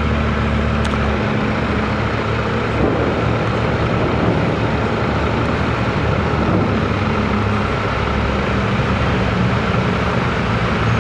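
A vehicle engine running steadily with a low hum, its tone shifting slightly about three seconds in.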